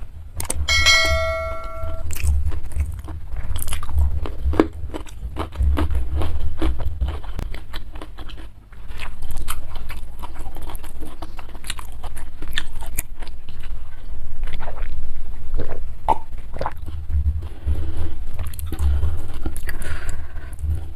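Close-miked chewing and crunching of food, with many small irregular clicks and mouth noises. A short ringing tone sounds about a second in.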